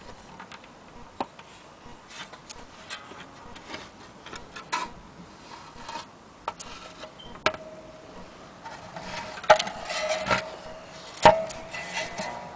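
Wooden mandolin being handled: scattered taps, knocks and rubbing on the wood, the loudest knocks in the second half. A faint steady tone rings through the second half.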